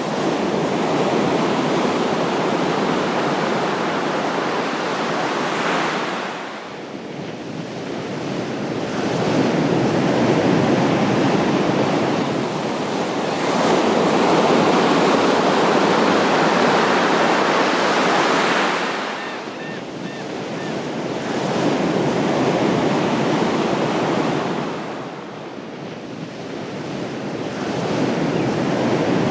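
Ocean surf: waves washing onto a shore in a continuous hiss that swells and eases in slow surges, about every six seconds.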